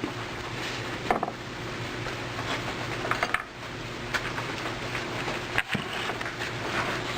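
Scattered metallic clicks and knocks of hand tools working on a car battery's terminal clamps and hold-down to free the battery, over a steady low hum.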